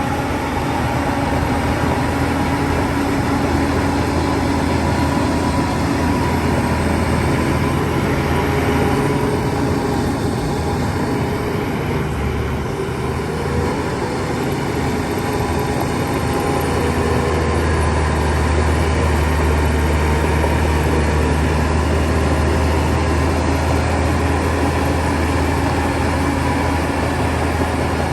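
Heavy diesel engine of a Shantui DH17 bulldozer running steadily while working, its low engine note growing stronger a little past halfway.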